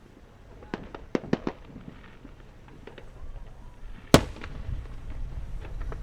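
Aerial fireworks going off: a quick run of about five sharp pops about a second in, then a single loud bang a little after four seconds, followed by a low rumble.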